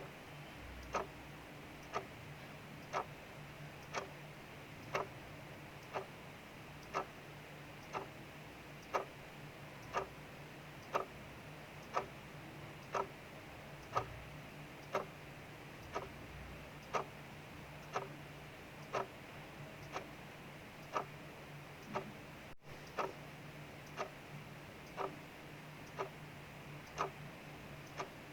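Clock ticking steadily, about one tick a second, over a steady hiss of rain.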